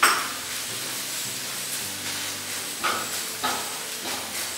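Chopped garlic, green chilli and onion with black pepper sizzling in hot oil in a metal wok. A silicone spatula stirs through them in a few strokes, the strongest at the start and others about three seconds in.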